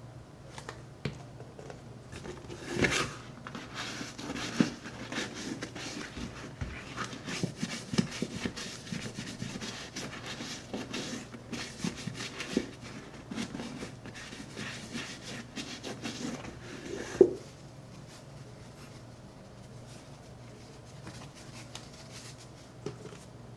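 Irregular scrubbing and rubbing strokes on the leather of a Red Wing 8080 boot being cleaned with shoe cleaner, with a few light knocks. The rubbing stops about 17 seconds in, leaving faint room tone.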